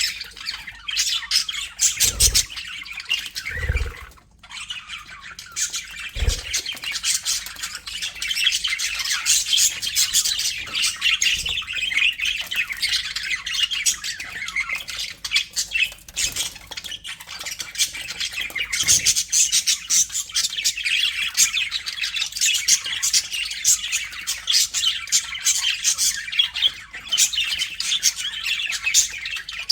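A flock of budgerigars chattering together, a dense, continuous run of quick chirps and squawks with a brief lull about four seconds in.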